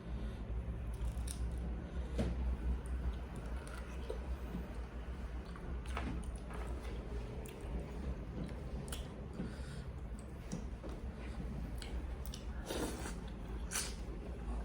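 A person chewing and biting fried chicken close to the microphone: wet chewing with scattered crunches and clicks, over a steady low hum.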